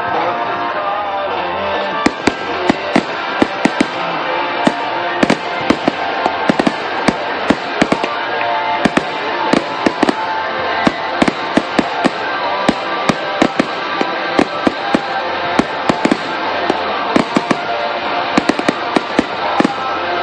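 An aerial fireworks display going off in a rapid, irregular string of sharp bangs and crackles, several a second from about two seconds in, with music playing underneath.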